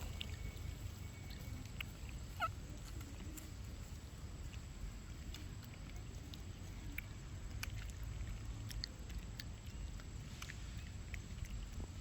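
One brief squeak from a macaque about two and a half seconds in, bending in pitch, over a steady low rumble with scattered small clicks.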